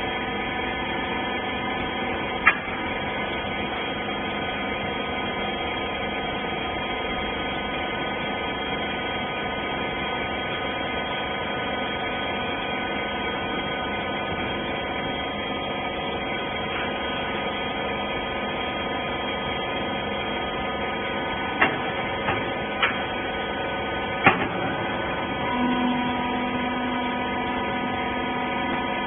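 Rag baler machine's motor and hydraulic pump running with a steady hum. There is one sharp knock about two seconds in and a cluster of four knocks near the end, and then a lower tone joins the hum.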